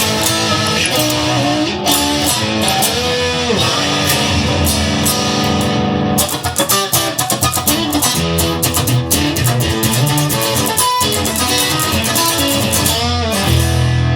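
Instrumental rock music with no singing: electric guitar over bass, with a quick run of picked notes in the middle.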